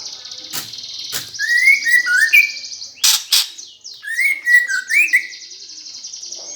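Eurasian tree sparrows squabbling: a fast, buzzy chatter runs underneath excited chirps that slide up and down, cut by a few sharp clicks.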